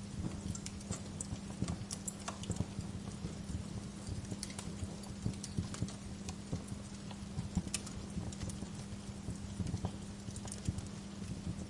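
Wood fire in a fireplace crackling, with irregular sharp pops and snaps of burning logs over a steady low rumble of the flames.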